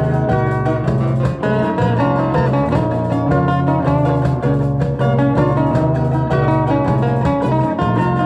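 Instrumental music led by fast plucked and strummed guitar in a flamenco-like style over a steady bass line.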